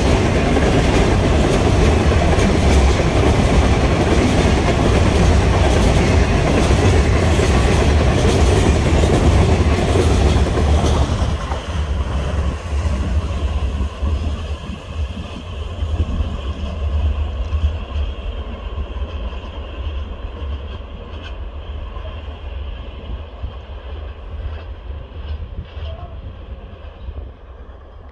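A container freight train's wagons rolling past close by with a loud, steady rumble of wheels on rail. About eleven seconds in the last wagon goes by, the noise drops sharply, and then it fades as the train moves away.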